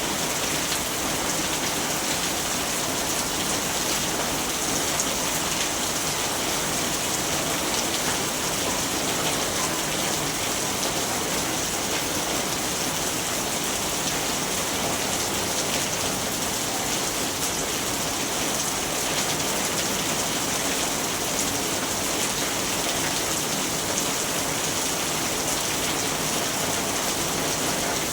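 Steady rainfall, an even hiss of rain falling on surfaces with no thunder.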